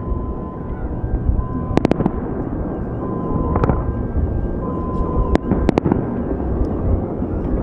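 Fireworks salute: a steady low rumble of bursts, with several sharp bangs over it, a quick cluster about two seconds in and more in the middle and around six seconds.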